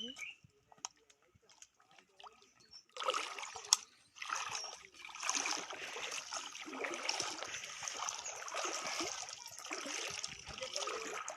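Water splashing and sloshing, starting about three seconds in and continuing unevenly, with a single sharp knock just after it begins.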